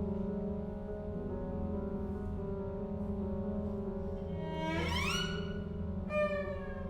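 Contemporary chamber music for solo bassoon and ensemble: low sustained chords hold steady, then a sliding glissando sweeps upward about two-thirds of the way through. Near the end a sharp accent sets off a falling glissando.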